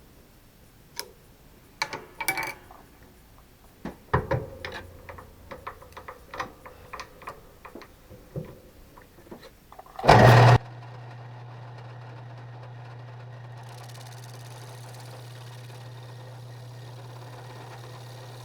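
Scattered clicks and light knocks of handling at first. About ten seconds in there is a short, loud burst, and then a steady low motor hum that holds even to the end.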